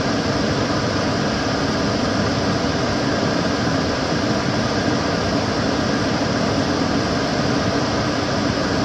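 Kitchen cooker hood extractor fan running steadily: an even rush of air with no changes.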